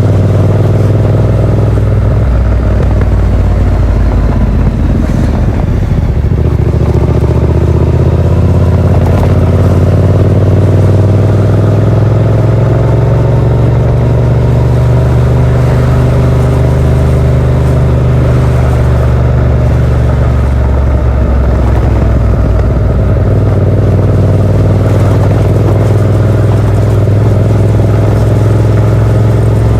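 Yamaha MT-07's parallel-twin engine running through a Yoshimura R77 exhaust with its dB killer fitted, heard from the rider's seat while riding; the engine note holds steady with slow, gentle rises and falls in pitch.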